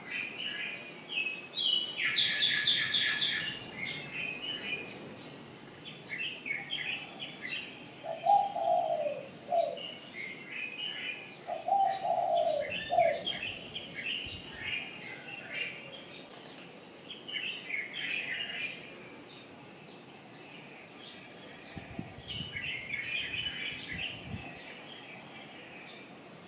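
Small birds chirping and twittering in quick, busy phrases, with a lower call heard twice, about eight and twelve seconds in.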